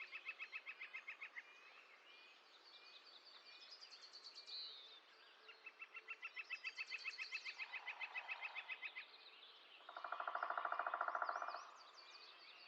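Several small songbirds calling: fast, even trills and high chirps repeat through the clip. About ten seconds in comes a louder buzzy, pulsing call lasting a second and a half.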